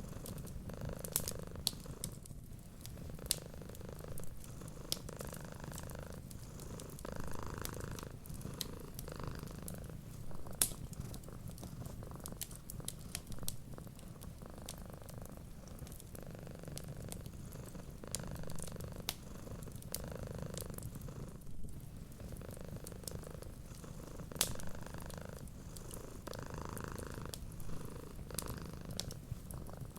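Domestic cat purring steadily, the purr swelling and fading with each breath about every two seconds. Sharp crackles of a wood fire pop irregularly over it.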